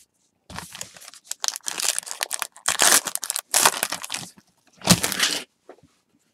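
Crinkling and tearing of a foil baseball-card pack wrapper being opened and handled, in irregular noisy bursts with the loudest near the end.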